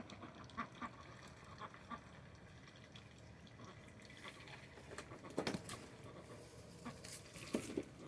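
Domestic ducks quacking now and then, short scattered calls with a louder burst of quacks about five seconds in and again near the end.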